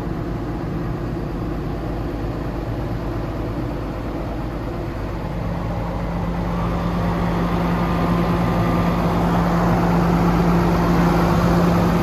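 Cummins ISB six-cylinder diesel of an International 4300 dump truck running steadily; about halfway through it grows louder, with a stronger, steady hum.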